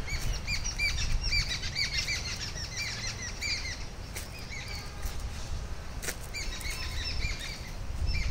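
Small birds chirping: many short, quickly repeated, downward-curving notes in two bouts, with a pause in the middle. A low rumble runs underneath.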